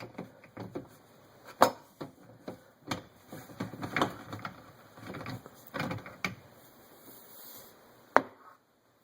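Plastic clicks, knocks and rattles of a dishwasher's lower spray arm being worked loose and lifted out of its mount, with one sharp click near the end.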